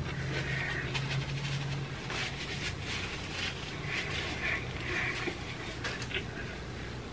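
Close-miked eating: chewing a crunchy taco shell, with many small crackling clicks and mouth sounds and breathing between bites. A low steady hum runs underneath, strongest in the first two seconds.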